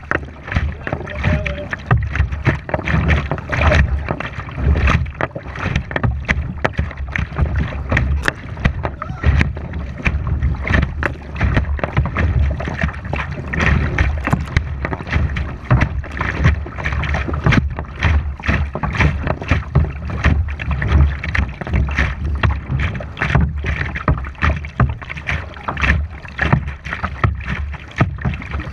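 Kayak on a river: water splashing and rushing against the boat and paddle in an irregular run of sharp splashes, over a low rumble of wind buffeting the camera microphone.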